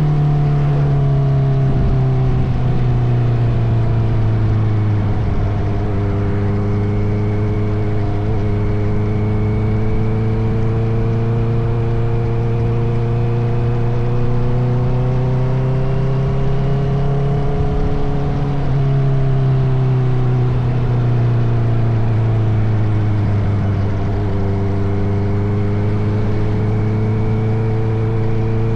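Honda CBR650R's inline-four engine running through an Akrapovic titanium exhaust while riding, heard over wind and road noise. Its pitch climbs slowly, drops briefly about two-thirds of the way through, eases off and then climbs again near the end.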